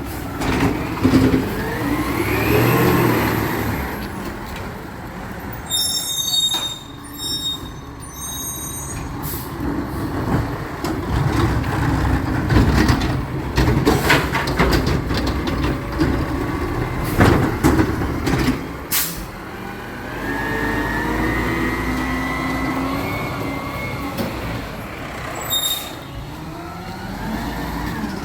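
Recycling truck running, its engine or hydraulics rising in pitch several times, with a run of clanks and knocks in the middle.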